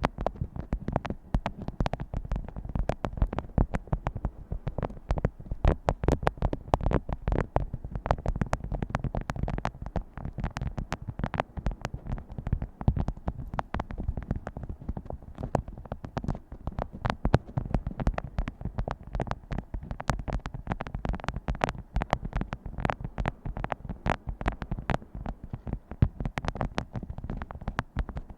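Fingers tapping on objects in quick, irregular taps, several a second.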